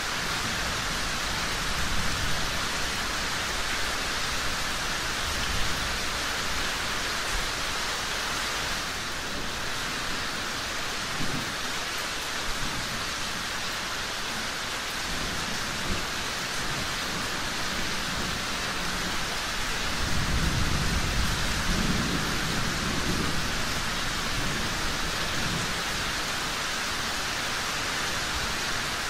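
Steady rain falling, with a low rumble of thunder that swells about two-thirds of the way through.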